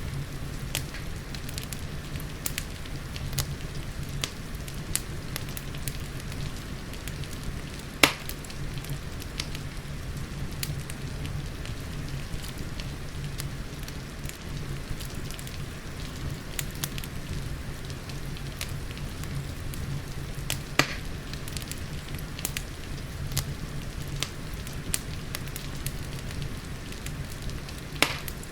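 Wood fire crackling with frequent small snaps over a steady low rumble and soft rain; three louder pops stand out, about eight seconds in, a little past twenty seconds and near the end.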